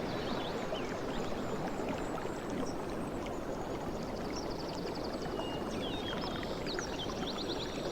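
Ocean waves washing steadily, a continuous rushing with no breaks. High bird chirps and a rapid trill sound over it, mostly in the second half.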